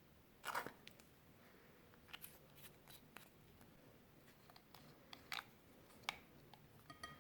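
Clear slime mixed with eyeshadow being handled: a string of sharp clicks and small crackles. The loudest is about half a second in, and the rest are scattered and irregular.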